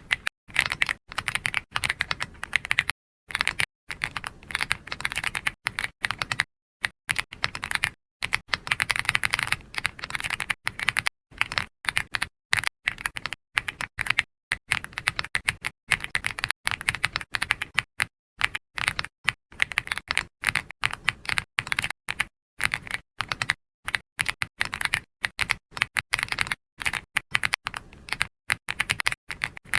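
Continuous typing on a computer keyboard: quick runs of key clicks broken by brief pauses.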